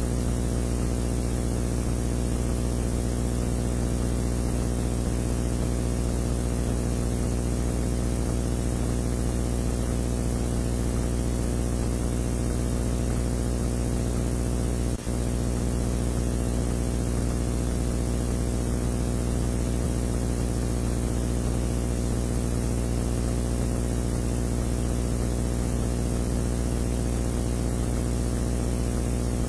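Mitsubishi Pajero rally car's engine idling steadily while the car stands still, under a constant hiss from the onboard camera's sound. The sound drops out for an instant about halfway through.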